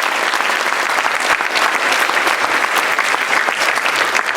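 An audience clapping steadily, applauding a veteran as he is recognised.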